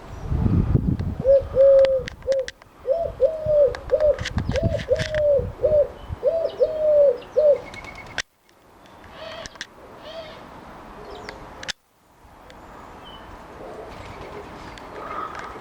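A dove cooing in a repeated series of short, even notes in little phrases, with small birds chirping high above it and wind rumbling on the microphone.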